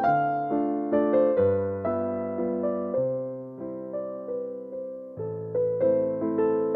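Slow, gentle piano music: soft chords and a simple melody, each note struck and left to fade, over a sustained bass line.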